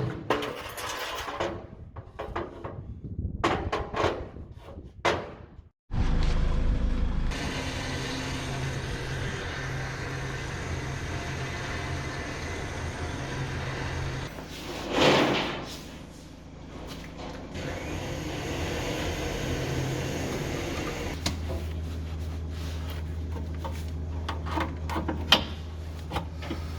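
Scattered knocks and clatter, then, after an abrupt cut, a steady low engine drone with road noise, as heard inside a moving vehicle.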